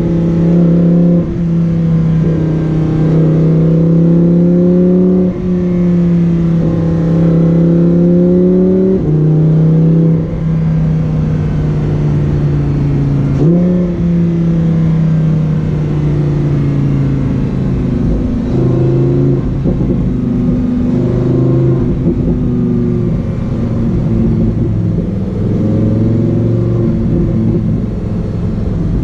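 Lamborghini Huracán Performante's naturally aspirated V10 running at low revs as the car drives. Its steady note steps down and up in pitch several times, with a short throttle blip about thirteen seconds in.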